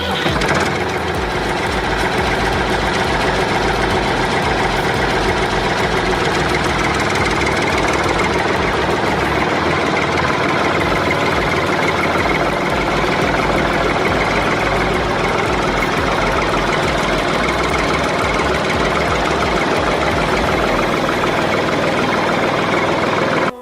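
Heavy truck engine running steadily at a loud, even level with a fast low pulsing.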